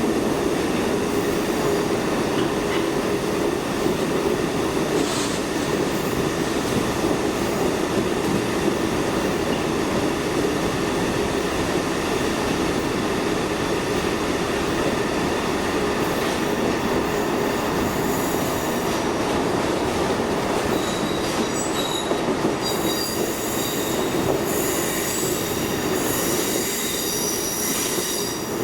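Train passing on the rails with a steady rumble of wheels, joined by high-pitched wheel squeal about two-thirds of the way through.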